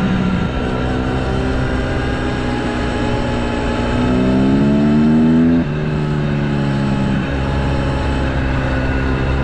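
Dirt bike being ridden, its motor running steadily; about four seconds in the pitch rises for a second and a half as it speeds up, then drops sharply.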